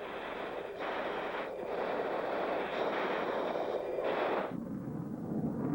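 Jet aircraft engine noise: a continuous rushing roar that changes abruptly about a second and a half in and again near the end.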